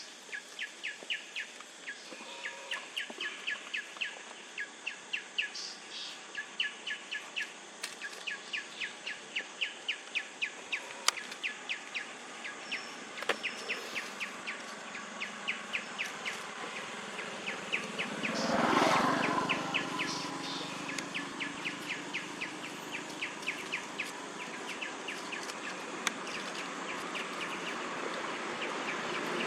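A bird chirping over and over in quick, even notes, about three a second, thinning out after about seventeen seconds. About eighteen seconds in, a passing vehicle rises and fades.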